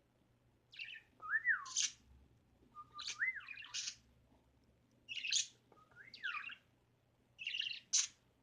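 A pet bird calling: a short phrase of harsh chirps and a whistle that rises and falls, repeated four times about every two seconds.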